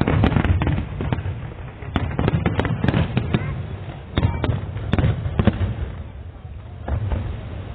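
Fireworks display: shells bursting in quick succession, sharp bangs and crackles over a low rumble. The loudest bangs come at the start, with a brief lull near the end.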